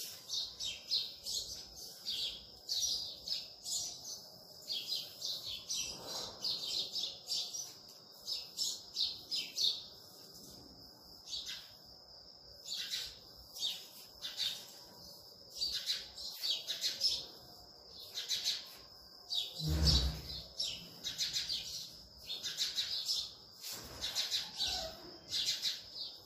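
Small birds chirping over and over in quick clusters of high notes, with a steady high tone underneath. One dull thump about twenty seconds in.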